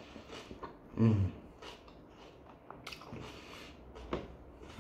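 A man chewing a mouthful of pljeskavica in flatbread, with soft wet mouth sounds and small clicks. About a second in, a short low vocal sound from him is the loudest thing heard.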